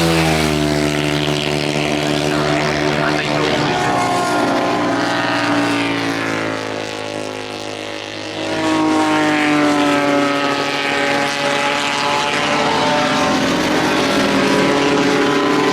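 Motorcycle engines passing at speed: the pitch drops as one goes by about a second in, the sound dips briefly around the middle, then another engine comes in and holds high revs.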